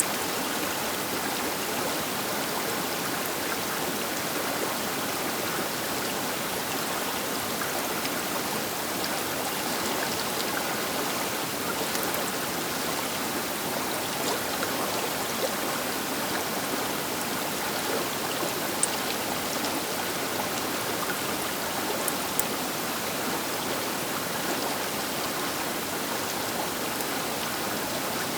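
The Baker River running past its bank: a steady rush of flowing water, with a few faint splashes or ticks now and then.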